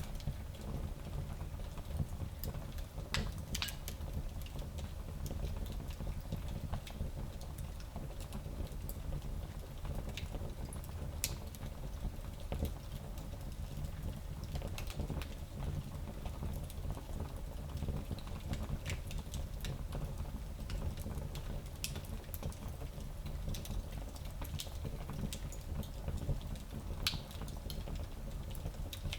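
Fire burning in a small fireplace: a steady low rumble of flames under scattered crackles and pops, with a few louder snaps.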